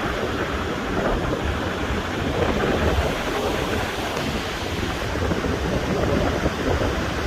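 Tropical-storm wind gusting hard and buffeting the microphone in an uneven low rumble, over a steady rush of surf and rain.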